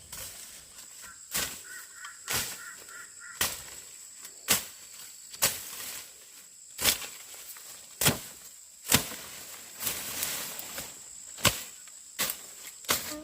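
A series of sharp knocks, roughly one a second, over a steady high-pitched insect drone.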